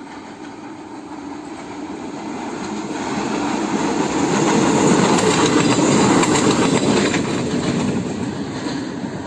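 A Koleje Dolnośląskie SA135 diesel railcar approaches and passes underneath. Its engine and wheel noise grow steadily louder to a peak about halfway through, with clicks of the wheels over the rail joints, then fade as it goes away.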